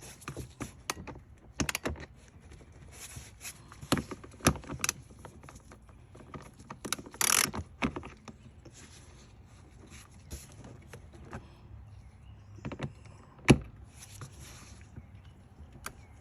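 Irregular clicks, knocks and brief scrapes of hands and tools handling the plastic air filter box and intake parts under the hood. There is a longer rustle about halfway through and a sharp knock near the end.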